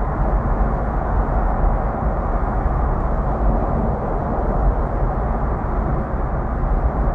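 Steady vehicle and road noise, a deep, even rumble with no distinct events.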